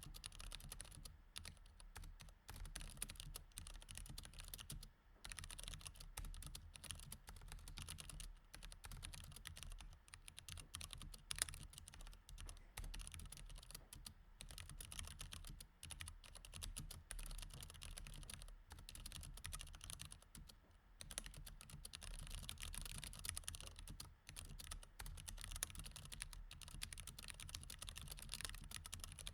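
Steady, fast typing on a mechanical keyboard with Cherry MX Red switches: a dense run of soft key clicks with a few short pauses and one louder keystroke a little over a third of the way in.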